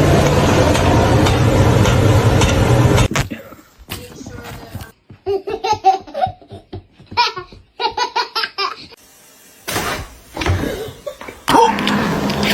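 Laughter in quick repeated bursts from about five to eight seconds in, after a loud, dense stretch of noise in the first three seconds.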